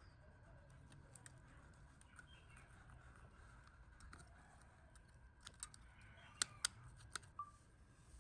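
Faint, scattered clicks and light taps over a low steady hum. Near the end comes a short run of sharper, louder ticks, about five in two seconds.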